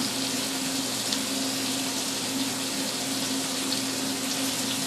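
Kitchen exhaust fan running steadily, an even hiss with a low hum.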